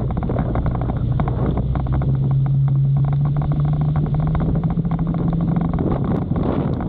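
Motorcycle engine running while riding, under heavy wind buffeting on the microphone; the engine note climbs a little partway through.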